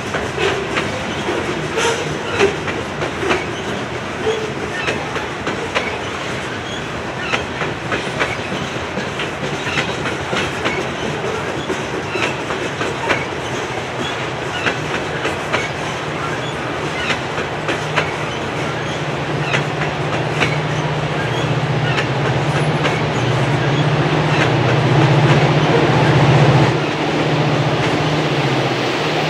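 Norfolk Southern coal train rolling past, its cars' wheels clicking steadily over the rail joints. From about halfway a low engine drone builds, loudest just before the end, as of diesel locomotives approaching.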